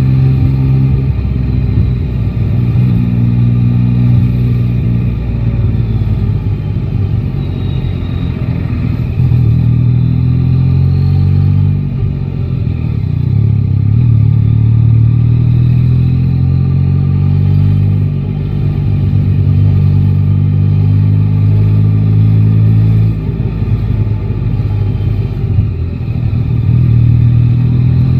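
Yamaha Tracer 9 GT's inline three-cylinder engine running in city riding. The note holds steady for several seconds at a time, then dips and picks up again several times as the throttle is closed and reopened or gears change.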